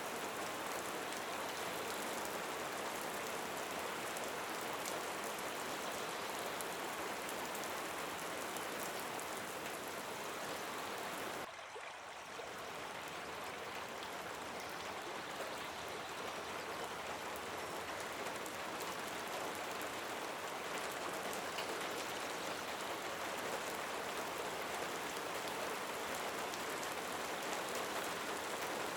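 Steady rain falling, a dense even hiss of drops, with a brief drop in level about eleven seconds in before it builds back.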